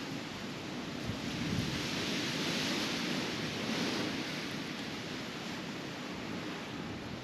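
Strong blizzard wind blowing steadily, swelling and easing a little in gusts.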